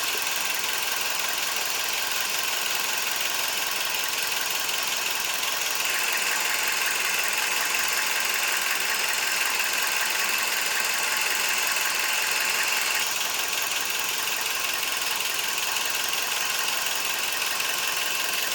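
Toyota Vitz turbo engine, fully warmed up and running on oil dosed with a molybdenum disulfide additive, running steadily with a strong hiss of intake air. It gets louder and hissier for about seven seconds from roughly six seconds in, then settles back.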